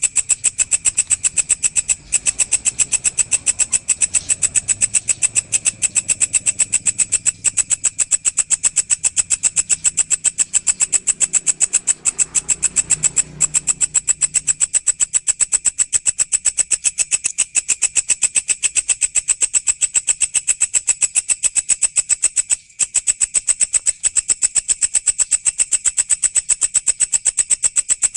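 Walang (grasshopper-type insect) stridulating: a high, rapid, evenly pulsed buzzing call that runs on steadily, with brief breaks a few times.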